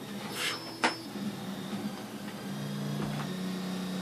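Solidoodle 3 3D printer's stepper motors humming as it prints, a steady low tone that jumps to a new pitch a couple of times as the moves change. A brief hiss and a sharp click in the first second.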